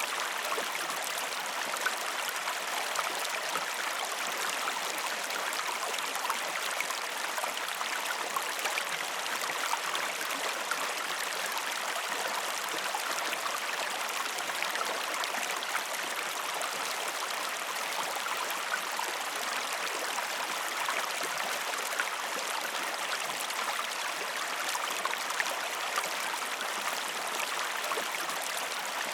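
A river or stream running steadily over stones, a continuous rushing haze dotted with small splashes and trickles.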